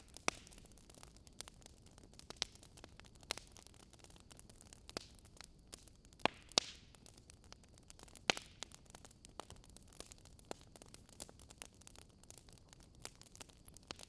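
Wood fire crackling: a faint steady hiss with irregular sharp pops and snaps, a few of them louder.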